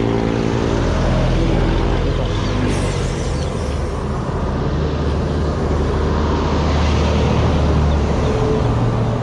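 A small engine running steadily, with a rushing noise over it.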